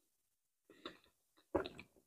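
Close-up mouth sounds of a mouthful of soft banana being chewed: a few short, wet squelches after a brief silence, the loudest about one and a half seconds in.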